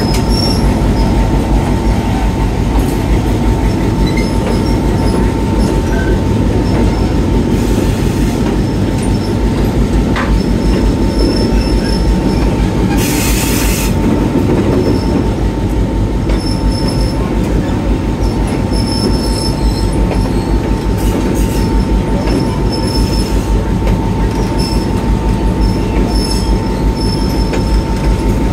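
A train under way behind an EMD GP7 diesel locomotive: a steady rumble of wheels on rail under a constant whining tone, with brief high-pitched wheel squeals coming and going. There is a short hiss about halfway through.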